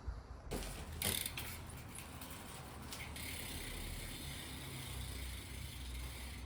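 BMX bike ridden slowly, its rear hub ratchet clicking as it coasts, coming in about half a second in.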